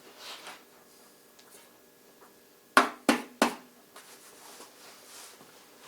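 Three sharp knocks in quick succession, about a third of a second apart, a little under three seconds in, against faint room tone.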